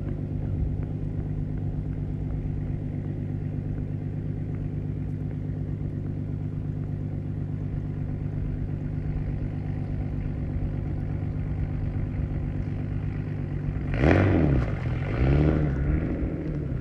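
BMW E46 engine idling steadily, then revved twice in quick blips near the end, its pitch rising and falling each time.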